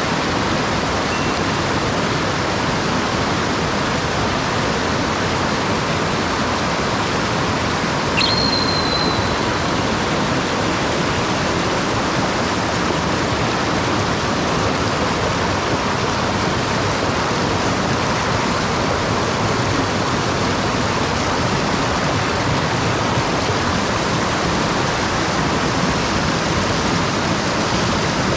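Mountain stream water rushing steadily over rocks. About eight seconds in there is one brief, sharp high-pitched sound.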